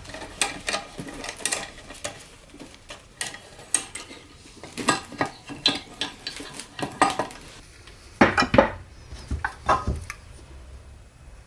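Metal parts and tools clinking and knocking against each other in an irregular clatter, with a few heavier knocks in the last few seconds, as transmission components are handled during a teardown.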